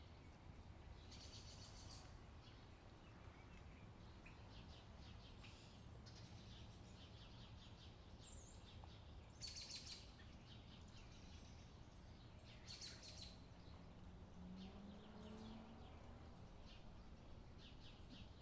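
Faint bird calls: short bursts of quick chirping trills, five or six times, over a steady low wind rumble.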